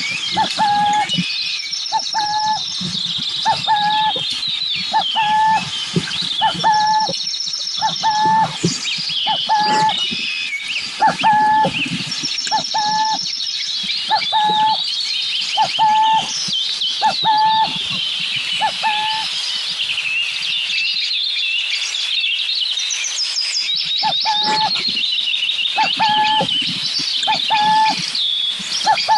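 Chorus of wild birds chirping and singing, with one short whistled note repeating about once a second that breaks off for a few seconds about two-thirds of the way through.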